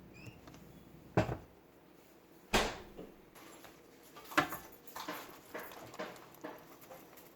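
Kitchen handling sounds: three sharp knocks about a second and a half apart, then a run of lighter taps and knocks about twice a second.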